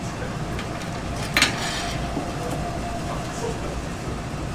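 Steady mechanical rumble and hum, with one sharp clack about a second and a half in.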